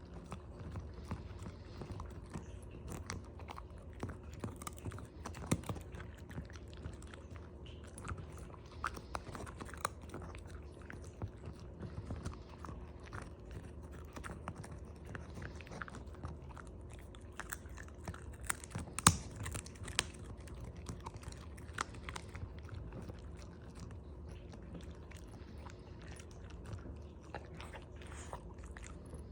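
A dog chewing and crunching herring: a continuous run of short bites and crunches, with one louder crunch about two-thirds of the way through.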